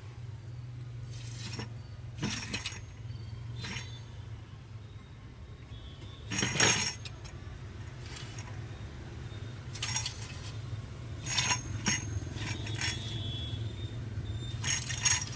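Pork-skin slicing machine at work: a steady low motor hum under irregular sharp metal clinks and chinks, about nine of them, the loudest a little before halfway.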